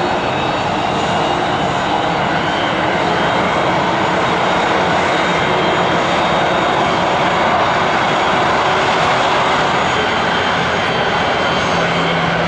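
Jet noise from an Airbus A320-214's CFM56 turbofan engines, a loud, steady rushing sound that barely rises or falls.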